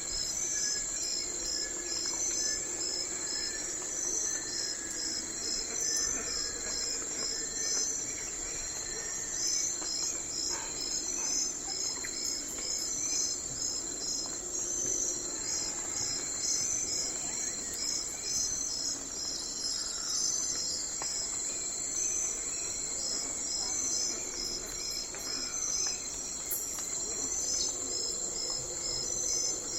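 Night forest ambience of crickets and other insects calling: a steady high trill under rows of short chirps repeated over and over.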